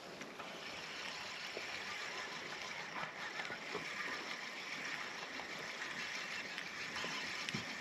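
Water lapping and rushing against the hull of a fishing kayak, a steady even wash with a few faint ticks.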